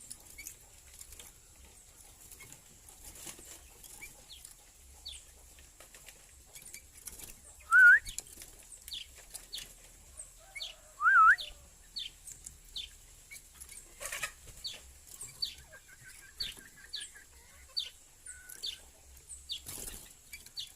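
Small birds chirping: short, high, falling chirps repeated about twice a second, with two loud whistled notes that rise and fall, about 8 and 11 seconds in.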